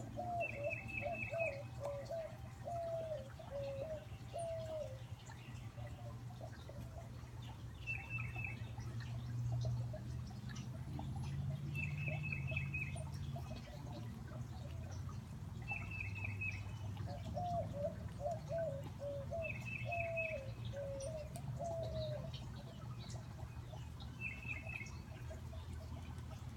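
Backyard songbirds singing: a short, quick high trill repeats about every four seconds, and a lower series of slurred whistled notes comes near the start and again in the second half. A steady low hum lies under the birdsong.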